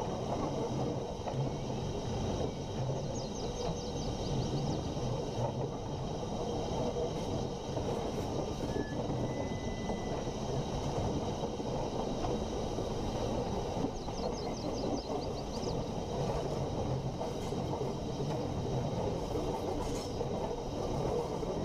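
Steady low rumble of a train running on rails, with two brief runs of high chirps, about three seconds in and again near fifteen seconds.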